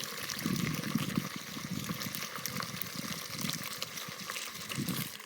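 Gasoline being poured from a can through a funnel into the fuel tank: a steady splashing pour with irregular glugs, which cuts off suddenly at the end.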